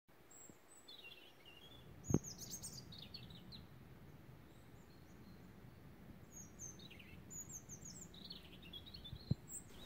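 Faint birdsong: small birds calling in short high chirping phrases, with a brief low thump about two seconds in and a weaker one near the end.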